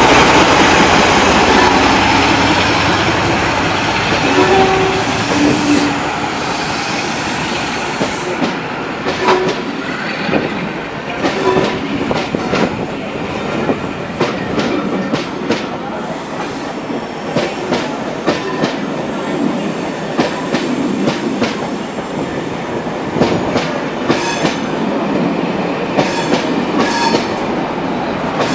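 Loco-hauled passenger coaches rolling slowly past, their wheels clicking irregularly over rail joints. Over the first several seconds the noise of the leading Class 47 diesel-electric locomotive fades away as it draws off.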